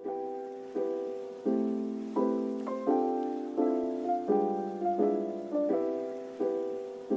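Background piano music: gentle chords struck at an even pulse, about three every two seconds, each one fading before the next. The track begins with the first chord.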